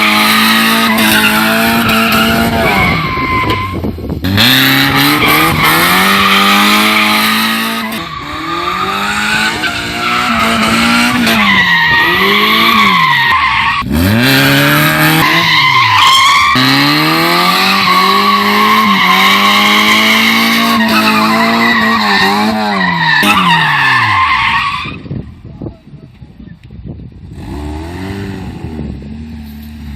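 Dubbed-in race-car engine sound effect revving up and down over and over, with tire-squeal skid sound effects. About 25 seconds in, the squealing stops and the engine drops to a quieter, steady idle.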